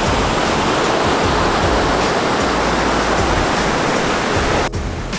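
Ocean surf washing onto the beach, a loud steady rush of breaking water that cuts off abruptly near the end.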